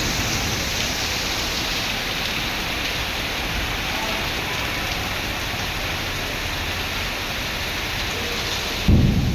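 Heavy monsoon rain pouring steadily, a dense, even hiss of rain on surfaces, with a sudden loud low boom of thunder near the end.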